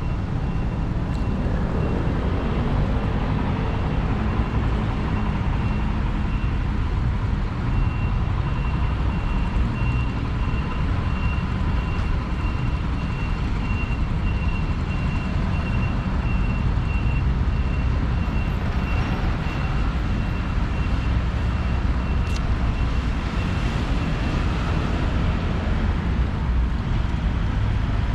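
Road traffic: a steady low rumble of passing vehicles, with a thin high-pitched tone that drops out briefly and then fades near the end.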